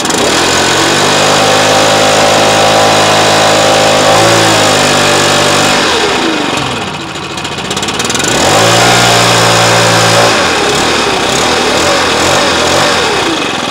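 Stihl BR 600 backpack blower's engine running just after a cold start: held at high throttle, let down about four seconds in, then revved up again and let down once more near the end.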